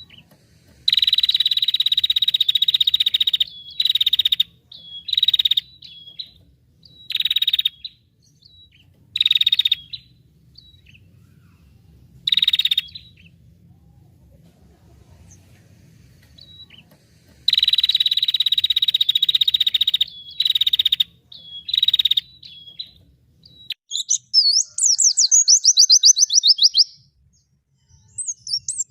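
Recorded songbird calls: harsh, buzzing notes held at one pitch, repeated in bursts of half a second to a few seconds with pauses between. Near the end, a different bird's rapid run of fast, sweeping chirps takes over.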